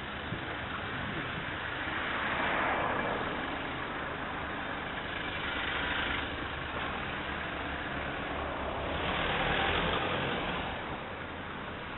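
Car engine and road noise, steady, swelling louder three times: about two to three seconds in, about six seconds in and about nine to ten seconds in.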